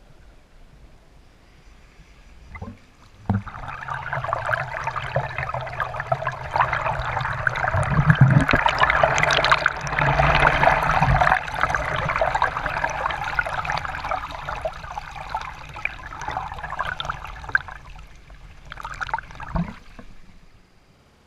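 Creek water rushing and splashing close to the microphone. It comes in suddenly about three seconds in, swells again briefly near the end, then stops.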